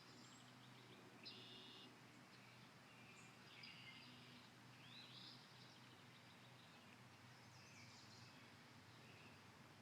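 Songbirds singing faintly in the distance: a few short trilled and chirping phrases, several seconds apart, over a low steady hum.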